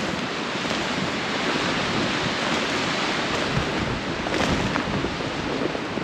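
Snowstorm wind blowing hard, a steady rushing noise with a few faint ticks in the middle.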